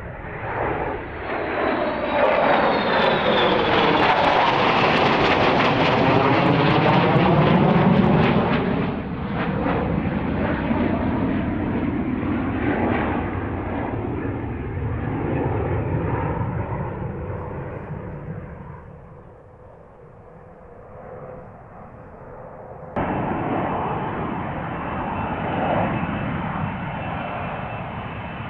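F-35B Lightning jet engine noise swelling to a loud peak and then fading away. About 23 seconds in it cuts abruptly to another steady stretch of jet noise.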